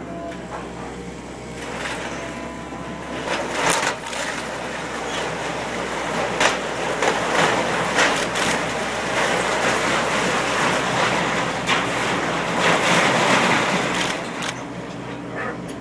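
A house being demolished: wood cracking, splintering and debris crashing down in a dense, loud jumble that builds after about two seconds and eases near the end, with a machine's engine running steadily underneath.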